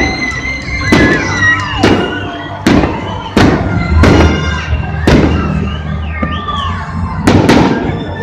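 Fireworks shells bursting overhead, about eight sharp bangs at uneven intervals of roughly a second, over music.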